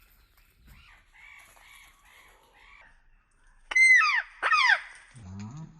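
Pet green parakeet giving soft chattering calls, then two loud screeches, each falling in pitch, about four seconds in.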